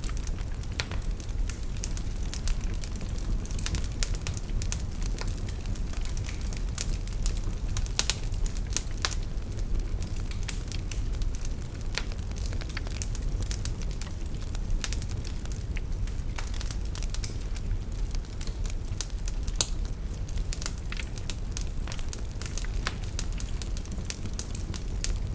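Wood fire in a fireplace burning steadily, with a low rumble of the flames and frequent irregular sharp crackles and pops from the logs.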